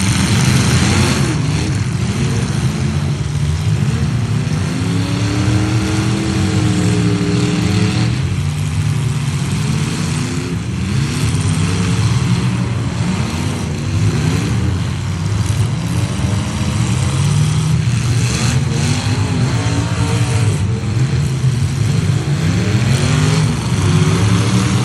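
Several demolition-derby trucks' engines revving up and down at the same time, their pitches overlapping, with no let-up.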